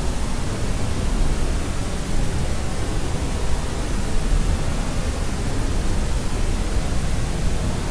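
Steady generated white noise for sleep, an even hiss weighted toward the low end, closer to pink noise than a flat white hiss, unchanging throughout.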